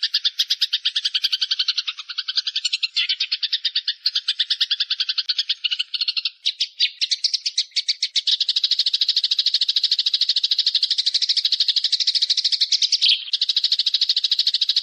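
Bird's rapid rattling trill of short, even notes, about ten a second, running without pause. About eight seconds in the notes turn denser and higher.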